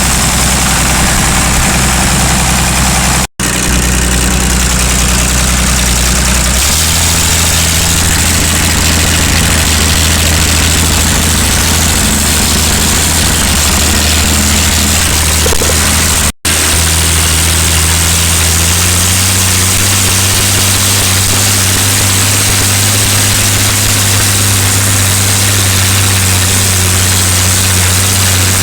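Ford 6000 Commander tractor's six-cylinder engine running steadily, its speed stepping up about six seconds in and again near twenty seconds, with two sudden brief dropouts in the sound.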